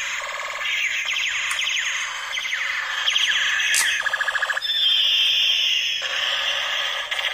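Electronic alarm-like sound effects: repeated quick falling chirps, a rapid pulsing about four seconds in, then a steady high tone for about a second before the chirps return.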